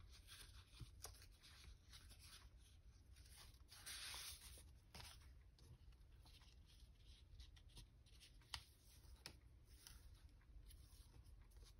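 Near silence with faint paper handling: soft rustling and sliding of paper pieces, with a few light taps.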